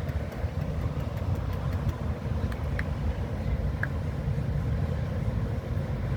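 Steady low rumble of a semi-truck running, heard from inside the cab.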